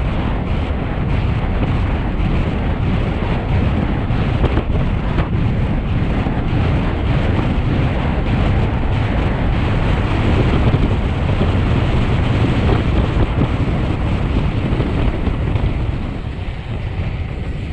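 Wind rushing over the camera microphone on a fast road-bike descent, loud and low, growing a little stronger through the middle and easing near the end as the speed drops.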